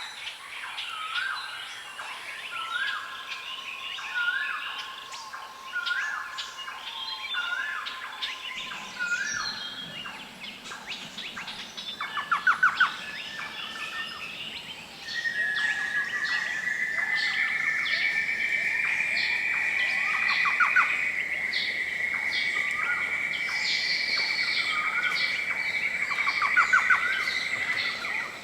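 Wild birds calling: one bird repeats a short rising call about once a second, with other birds chirping and a couple of brief rapid trills. About halfway through, a steady high drone joins in and runs on.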